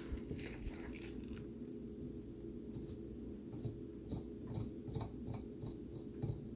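Soldering iron tip scraping and tapping lightly along the pins of a small surface-mount chip while drag-soldering, a string of faint irregular ticks, over a steady low hum.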